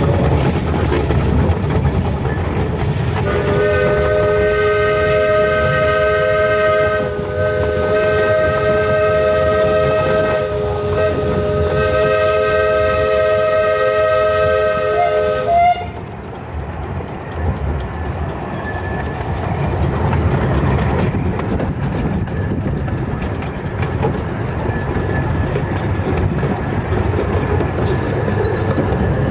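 Steam locomotive's chime whistle blown in one long chord of about twelve seconds, with two brief dips, over the rumble and clatter of a miniature railway train running along the track.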